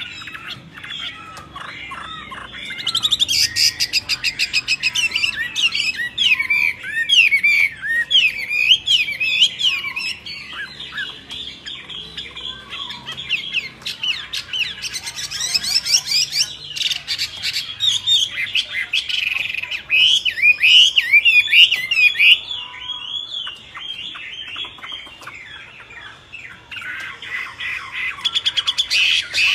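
Songbirds chirping and calling in a busy chatter of quick, high, sweeping notes. The chatter comes in bursts, with a couple of quieter spells in between.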